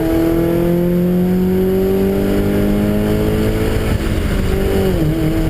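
Car engine pulling hard on a race track, its note rising steadily for about four seconds, then breaking off and dropping in pitch about a second before the end, as at a gear change.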